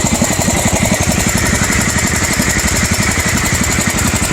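Garden tractor engines, small single-cylinder Kohlers, running together at a steady idle with a fast, even chuff of firing pulses.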